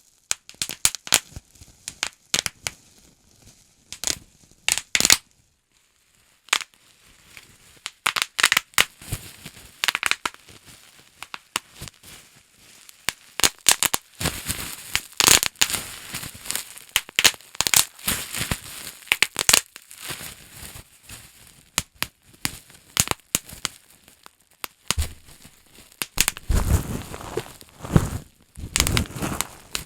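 Bubble wrap being handled: irregular sharp pops and crackles, with denser, deeper knocks and rustling near the end.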